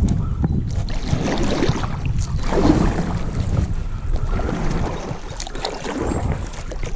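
A kayak moving off onto the water from its launch: irregular hull and paddle sounds, with a steady low wind rumble on the microphone.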